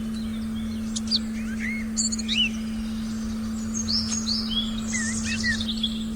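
Forest birds chirping in short, quick calls that come thickest over the middle and latter part. Beneath them a steady electronic tone is held at one pitch without change.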